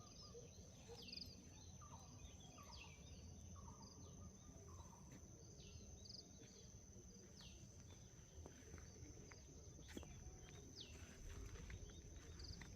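Faint outdoor birdsong: many small birds giving short, quick, falling chirps, over a steady high-pitched insect buzz. A single click about ten seconds in.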